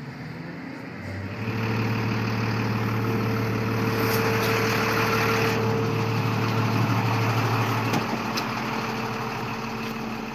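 A vehicle engine running steadily at idle, coming up louder about a second and a half in; its deep hum drops away near the end.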